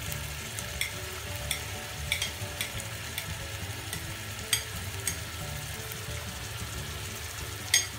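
Chicken pieces and onions sizzling steadily in hot oil in a cooking pot, with a few sharp clicks scattered through.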